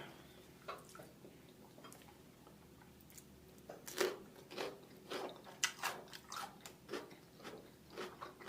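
Close-miked mouth sounds of a person eating seafood boil: irregular wet chewing smacks and clicks, starting about three seconds in and coming every half second or so.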